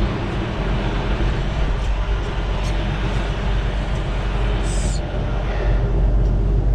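Semi truck's diesel engine running steadily, heard from inside the cab, with a brief hiss of air about five seconds in.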